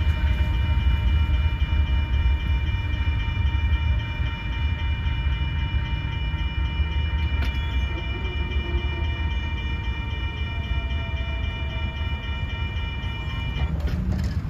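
Low rumble of a Union Pacific coal train's last cars rolling away on the rails. Over it a railroad crossing signal bell rings steadily and cuts off near the end as the train clears. A car then starts to drive past.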